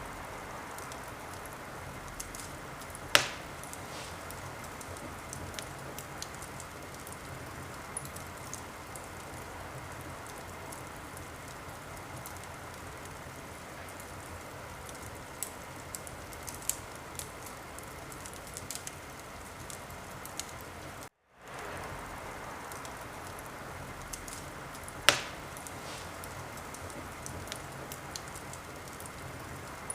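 Wood fire crackling in a fireplace: a steady hiss with scattered small crackles and two sharp, loud pops, about 3 seconds in and about 25 seconds in. The sound cuts out for a moment about 21 seconds in, then resumes.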